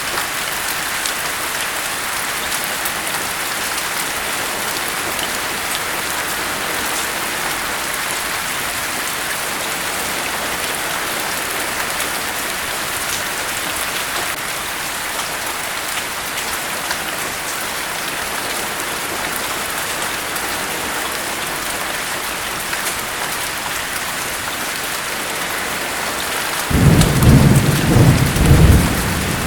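Steady rain falling, an even hiss, with a low rumble of thunder rolling in near the end for a few seconds.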